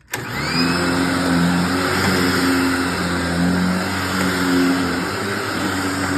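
Hoover WindTunnel Anniversary Self-Propelled upright vacuum cleaner switched on, its motor whine rising sharply over the first half second, then running steadily with a loud airy rush and a low hum.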